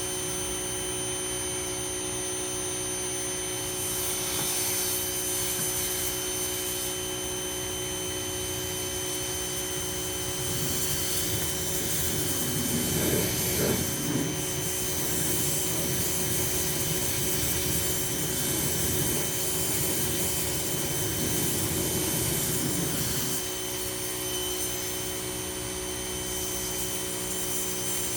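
Ryobi 2000 psi pressure washer running steadily with a whine. From about ten seconds in to about twenty-three seconds, a louder rushing hiss of the spray joins it.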